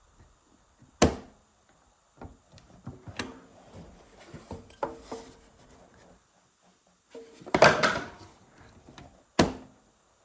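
Tools and wood being handled while setting up a cut: a few sharp knocks and clunks, one about a second in, a busier bout of clatter around two thirds of the way through and another knock near the end, with quieter rubbing and shuffling between. No saw is running.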